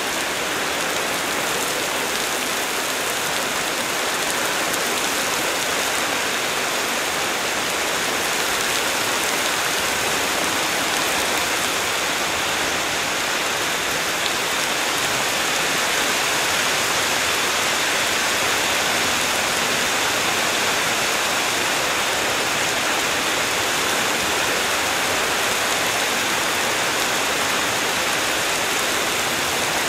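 Heavy rain pouring steadily onto leafy trees, a dense even hiss, with wind moving through the foliage and swelling slightly about halfway through.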